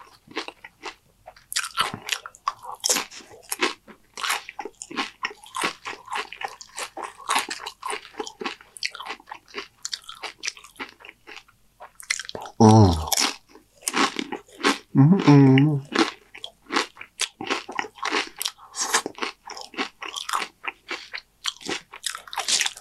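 A person biting and chewing crunchy Dorito tortilla-chip nachos, with a steady run of loud, irregular crunches. Two short vocal sounds from the eater break in around the middle.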